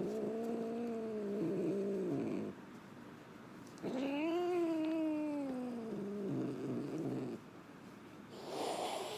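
Domestic cat growling in two long, low yowls. The second yowl rises and then falls in pitch. It is a grumpy cat's warning growl while being teased.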